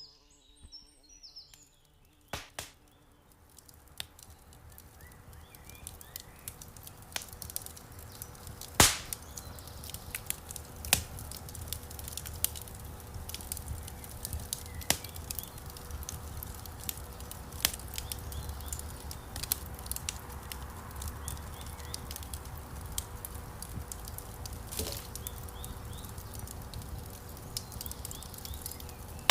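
Wood fire crackling and popping in a fireplace, fading in over the first few seconds, with a low rumble of flame under scattered sharp pops; the loudest pop comes about nine seconds in.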